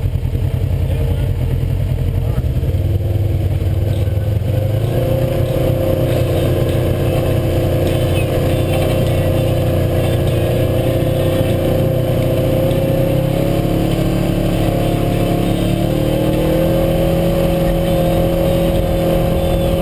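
Side-by-side UTV engine running steadily under way, with a steady higher hum coming in about five seconds in.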